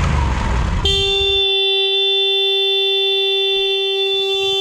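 Motorcycle engine running, then about a second in the motorcycle's horn starts sounding one steady, unbroken note as the bike tips over off its stand. The engine dies a moment later while the horn keeps blaring for nearly four seconds, then cuts off suddenly.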